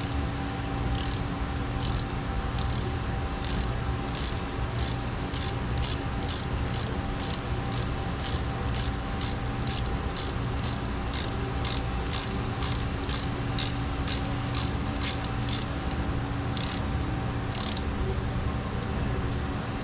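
Ratchet wrench clicking in a steady rhythm, a little under twice a second, as bolts are run in on the lower unit of a 40 hp Mercury-built Force outboard during a water pump replacement.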